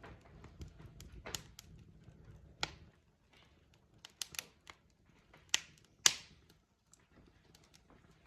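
Burning logs in a wood fire crackling, with irregular sharp pops and snaps; the loudest pop comes about six seconds in.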